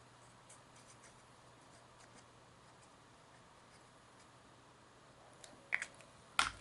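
Quiet handling of paper craft pieces: a few faint light taps, then a brief louder rustle and a sharp click near the end.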